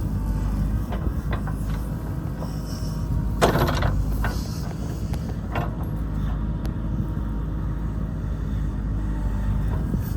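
Heavy diesel construction machinery engine running steadily, with several sharp knocks and clanks of work on the road; the loudest is a short burst about three and a half seconds in.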